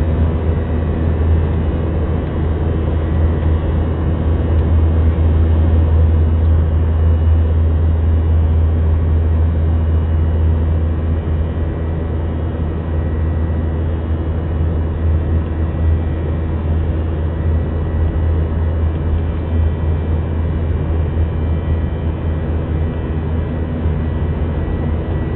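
Jet airliner engines droning steadily, a loud low hum with steady higher tones over it, easing slightly from about halfway.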